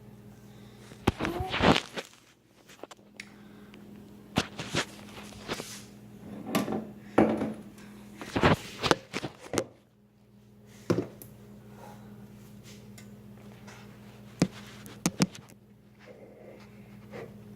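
Kitchen clatter of a cooking pan being handled and set down, with cupboard or drawer knocks: about a dozen separate bangs and clunks at uneven intervals over a steady low appliance hum.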